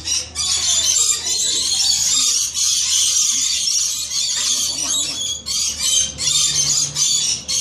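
Small parrots screaming close to the microphone: a loud, dense, high-pitched screeching with a couple of brief lulls.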